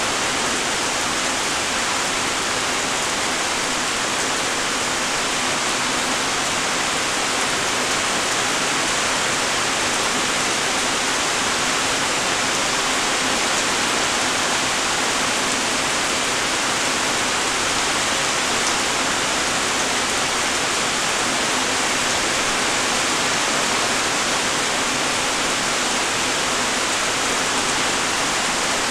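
Steady light rain falling: an even hiss of many small raindrops, with no single drops standing out.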